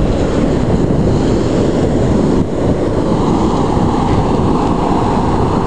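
Steady rush of ocean surf mixed with wind buffeting the camera microphone.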